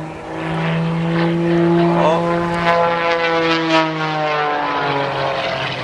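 Aerobatic display plane's propeller engine running through a manoeuvre, a steady pitched note that shifts slightly and drops a little near the end.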